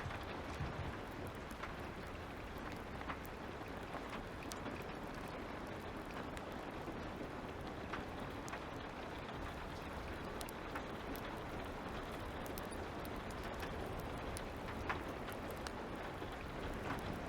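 Steady light rain with a fire crackling: an even hiss dotted with scattered small pops and clicks.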